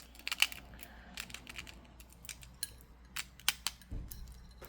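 Black tourmaline and clear quartz stone beads clicking against one another as a bead is threaded onto a bracelet string: a run of small, sharp, irregular clicks.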